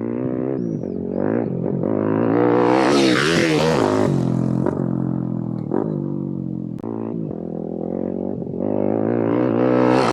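YCF Bigy 190 pit bike's single-cylinder four-stroke Daytona engine being ridden hard, revving up and easing off over and over. The revs climb highest about three seconds in, with a rush of noise, then drop. The sound cuts off suddenly at the end.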